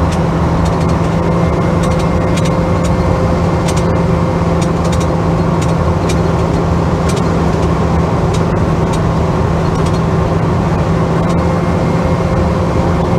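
Holden HK running at a steady cruising speed, heard from inside the cabin: an even engine drone with road noise and scattered light ticks.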